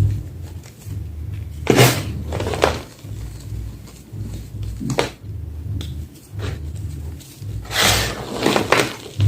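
Homemade gym chalk block being crushed, giving short, crisp crunches: a pair about two seconds in, one at about five seconds, and a cluster near the end.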